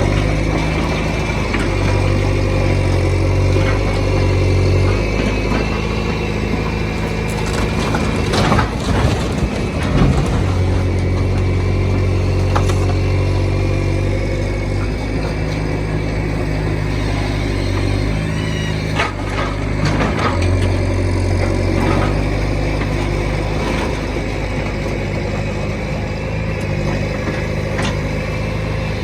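Diesel engine of heavy machinery running steadily, with a cluster of sharp cracks and knocks about a third of the way in and a few more later.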